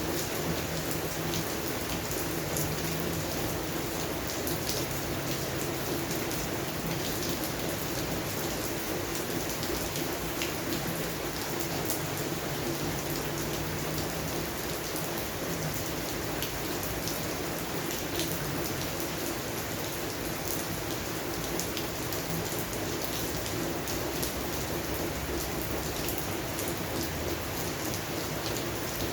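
Steady rain falling on a garden and its plants, a constant hiss with many small drop impacts scattered throughout.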